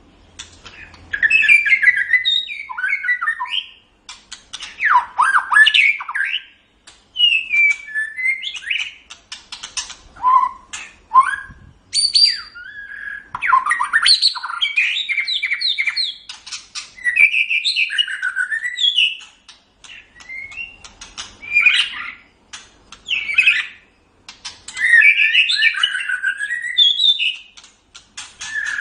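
White-rumped shama (murai batu) singing: loud, varied phrases of clear whistles and fast chattering note runs, each a second or two long, separated by short pauses.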